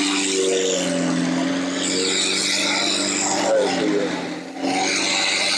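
McLaren supercar's twin-turbo V8 running at low revs as the car creeps past, a steady drone with small shifts in pitch.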